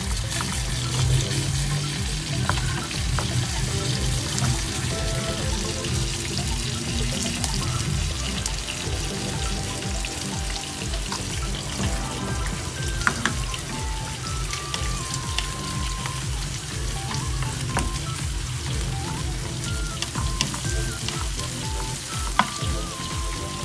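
Sliced ampalaya (bitter gourd) with egg sizzling in a frying pan while it is stirred with a wooden spatula, with small scrapes and clicks of the spatula against the pan. Soft background music with a simple melody plays along.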